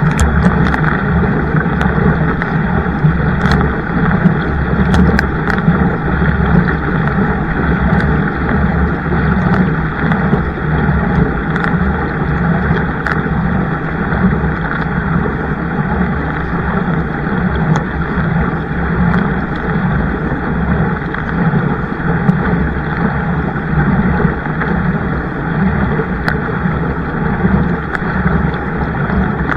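Steady wind noise buffeting the microphone over the rush of water from a kayak on the water, with a few faint clicks scattered through.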